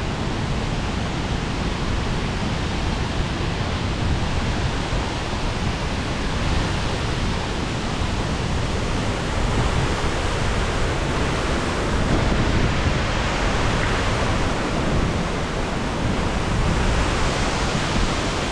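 Wachirathan Waterfall, a large cascade, pouring down in a steady roar of falling water.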